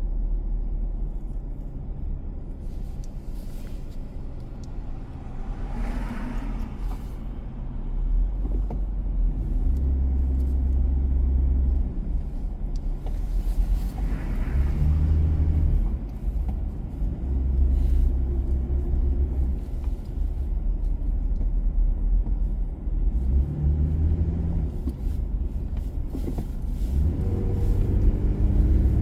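Car driving on city streets: a steady low rumble of engine and road noise, with the engine pitch rising and falling several times as the car speeds up and slows. Two brief hissing swells, about six and fourteen seconds in, sound like vehicles passing.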